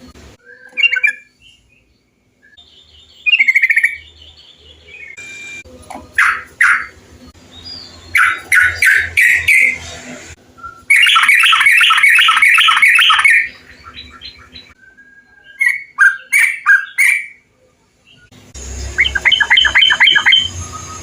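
Trucukan bulbuls singing in a string of separate chattering phrases of quick repeated notes, with one long, fast run of notes in the middle. The background changes abruptly between phrases, as from several recordings spliced together.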